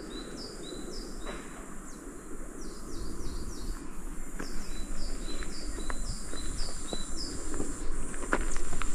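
Small birds chirping over and over in short downward-sliding notes, two or three a second, over a steady high insect hiss. From about halfway in, footsteps crunch on a stony trail and grow louder.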